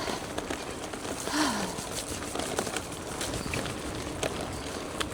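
Steady rolling noise of a gravel bike riding a wet gravel trail in rain, with scattered small ticks from grit and raindrops. About a second and a half in, a short falling hum-like voice sound.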